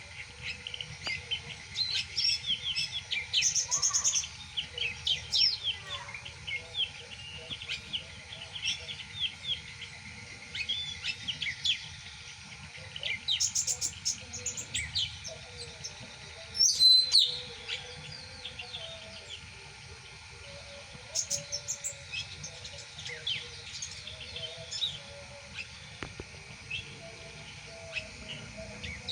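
Songbirds chirping and singing: many quick, short high notes and trills throughout, with a louder burst about seventeen seconds in.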